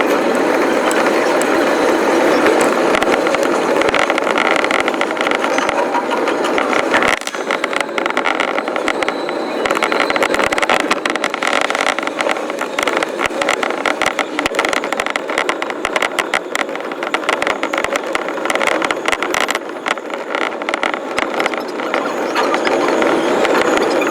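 JR East commuter train running on the line, heard from the front of the train and sped up five times, so the wheel and rail-joint clatter comes as a dense, rapid crackle over a steady running noise. The lowest rumble thins out about seven seconds in.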